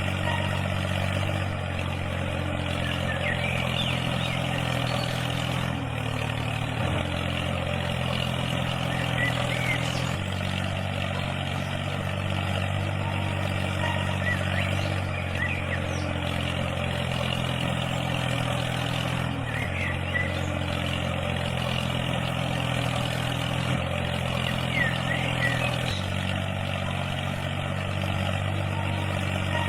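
Engine running steadily at a low idle-like pitch, its tone stepping slightly up or down a few times.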